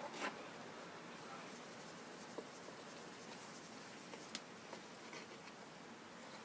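Faint, steady fizzing of baking soda reacting with vinegar in a bottle as the foam rises, with a few small clicks.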